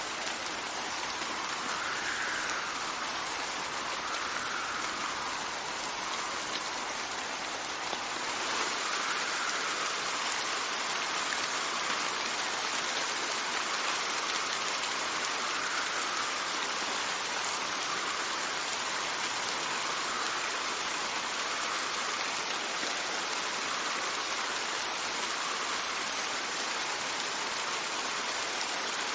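Steady rain with wind: an even hiss with a higher rushing that swells and fades every two to three seconds, growing a little louder about eight seconds in.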